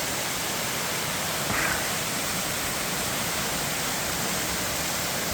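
Waterfall: water falling and running over rocks in a steady, unbroken rush of noise.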